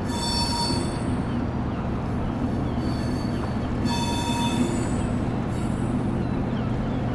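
Dockside ambience: a steady low rumble with short, high-pitched metallic squeals coming and going, the loudest right at the start and about four seconds in.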